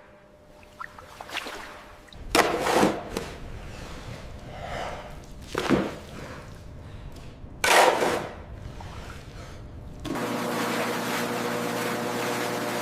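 A few loud surges of rushing noise a few seconds apart, then, about ten seconds in, a steady machine drone with a low hum sets in.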